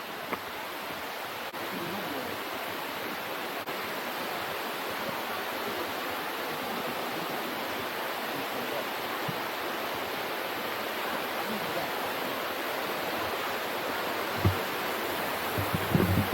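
Water rushing down a waterfall's cascades: a steady, even rush, with a few low bumps near the end.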